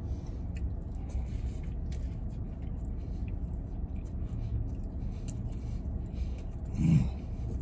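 A man chewing a mouthful of a glazed-donut burger, with faint wet mouth clicks, over a steady low rumble in a truck cab. A short, louder low sound comes near the end.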